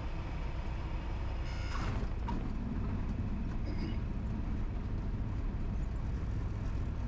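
Cessna 172 cabin noise during the landing rollout: the engine and propeller running steadily at idle with a low rumble, and a couple of brief clicks about two seconds in.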